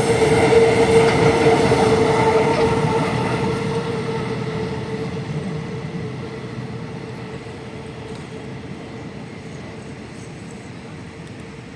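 Empty iron-ore freight train rolling along the rails, its wagon wheels giving a steady squealing tone over the rumble. The whole sound fades steadily as the train moves away.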